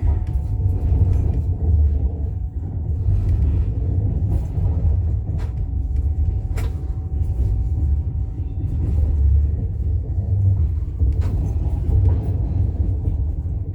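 Car driving on the road, heard from inside the cabin: a steady low rumble of tyre and engine noise, with a few sharp clicks or rattles along the way.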